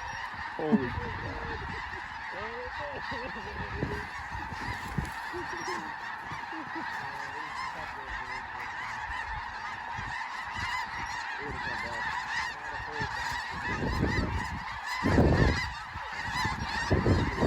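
A huge flock of snow geese calling overhead, thousands of high honking calls blended into one continuous din. A louder low rumble comes through about fifteen seconds in.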